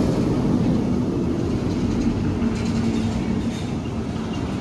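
Roller coaster train rolling along its steel track: a steady rumble, with a faint hum coming in about halfway through.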